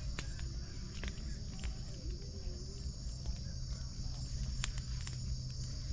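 Night insects, crickets or similar, chirring in a steady high-pitched chorus over a low steady rumble, with a few faint clicks.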